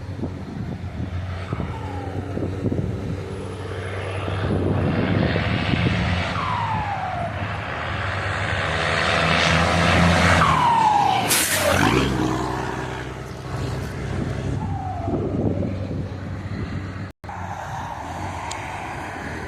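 Scania 420 truck's diesel engine running with its Biagio turbocharger fitted with a whistle comb, giving several falling whistles as the engine revs and lets off, the loudest about eleven seconds in.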